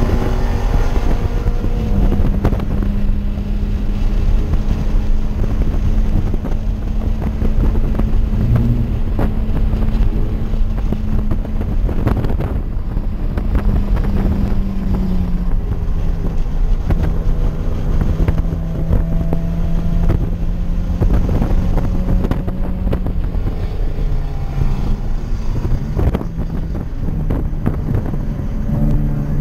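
Toyota 86's flat-four engine heard from inside the cabin while lapping a race track, its note holding fairly steady and easing down in pitch in steps around the middle and again near the end, over heavy wind and road noise.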